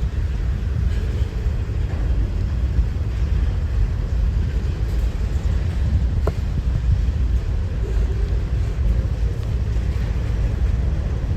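Strong wind buffeting the microphone, a steady gusting low rumble, with one brief squeak about six seconds in.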